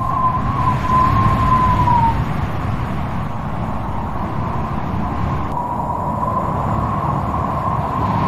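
Strong wind blowing with a steady low rumble and a wavering, howling whistle that fades out about two seconds in and comes back about five and a half seconds in.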